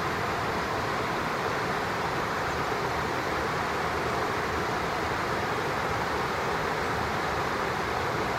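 Steady, even rush of running stream water.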